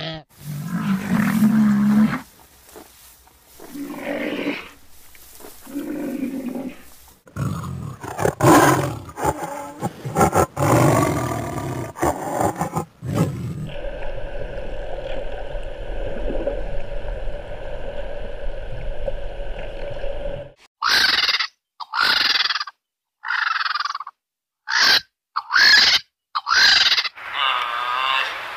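A string of different animal calls: growling roars in the first half, a steady drone with a few held tones for about seven seconds in the middle, then a run of short, sharp calls near the end.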